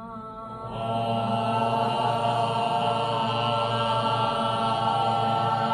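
A sustained sound-therapy drone, rich in overtones, swelling in over the first second and then holding steady without a break.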